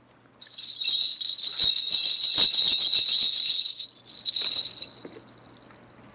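A shaman's bundle of brass ritual bells being shaken in a continuous jingling for about three and a half seconds. After a brief stop comes a shorter shake, and the ringing dies away near the end.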